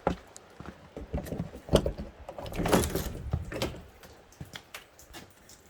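A wooden door being opened: several knocks and clunks, and a scraping rub about two and a half seconds in as it slides or swings.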